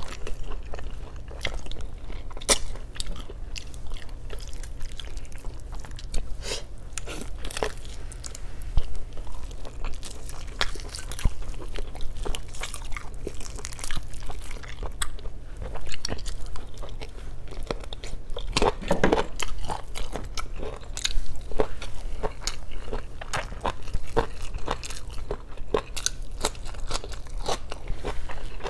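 Close-miked chewing and eating of braised chicken adobo and rice by hand: continual mouth smacks, bites and sharp clicks, unevenly spaced.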